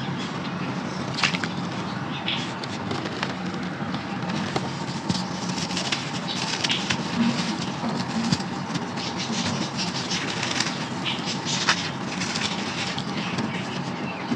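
Dry, crunchy brown sand crumbling in a clay pot: irregular gritty crackles and crunches throughout, over a steady low background hum.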